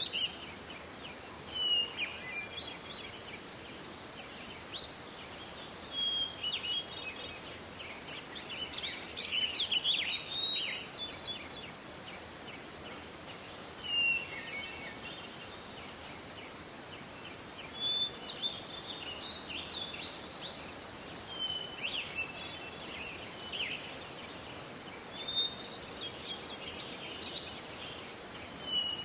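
Songbirds singing: repeated bouts of short high chirps and trills. A faint high note is held for about two seconds three times, all over a steady background hiss.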